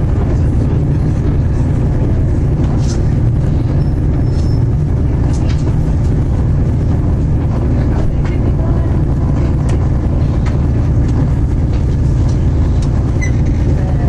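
Interior of a Class 221 Super Voyager diesel-electric train on the move: a steady low rumble from the underfloor diesel engine and the wheels on the rails, with a few faint clicks from the track.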